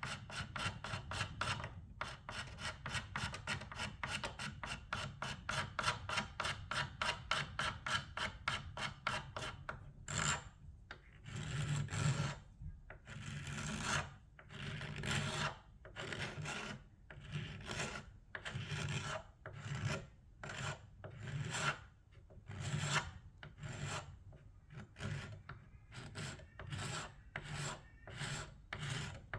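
Hand stripping of old paint and finish: quick, even rubbing strokes, about five a second, for the first ten seconds, then slower, longer strokes at about one and a half a second.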